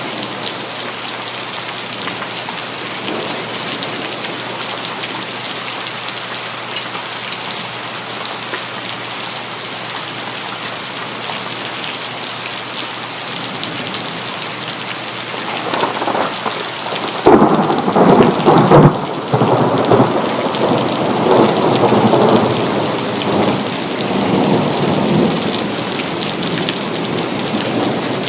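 Steady rain with a thunderclap a little past halfway: the thunder builds, cracks loudly, then rolls and rumbles away over several seconds.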